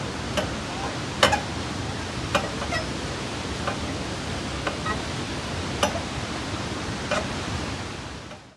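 Steady rush of flowing water, with irregular sharp ticks about once a second; it fades out near the end.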